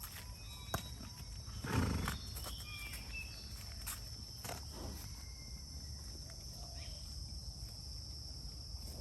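A horse gives one short, breathy snort about two seconds in, with a few sharp clicks scattered through, over a steady high-pitched drone of insects.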